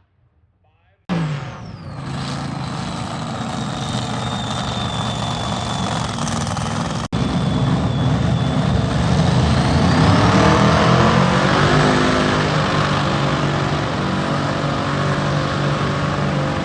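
Loud race-car engine noise that starts abruptly about a second in, with an abrupt break about seven seconds in, and grows a little louder in the second half.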